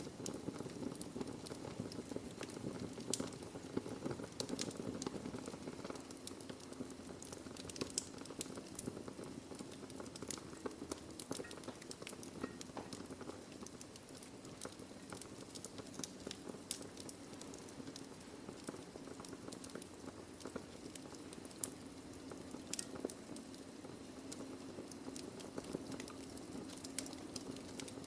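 Wood fire burning in a fireplace: a steady low rush with frequent irregular crackles and sharp pops from the burning logs.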